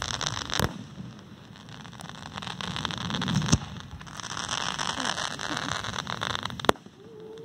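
Aerial fireworks bursting overhead: three sharp bangs about three seconds apart, with dense crackling that swells and fades between them.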